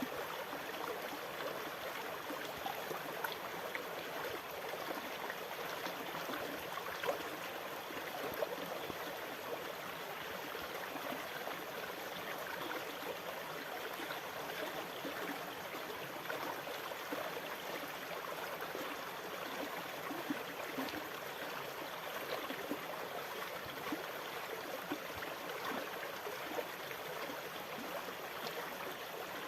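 Sea water lapping and gurgling steadily, with many small splashes and no distinct wave surges.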